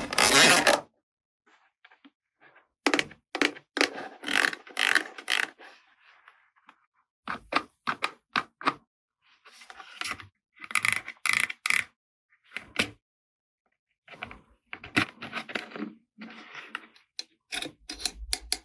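Plastic toy pieces being handled, with bursts of clicking, tapping and scraping and short silences between them.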